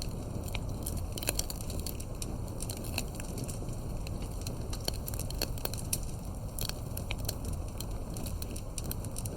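Campfire burning with a steady low rumble of flames and frequent irregular crackles and pops of burning wood.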